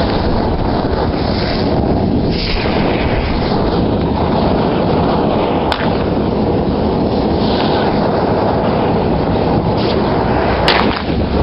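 Continuous dense rumble of fireworks going off, with two sharp cracks, one about halfway through and one near the end.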